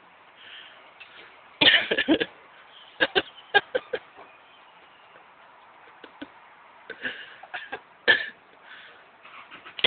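A person coughing in short bursts, loudest about two seconds in, with scattered sharp clicks and further brief coughs later on.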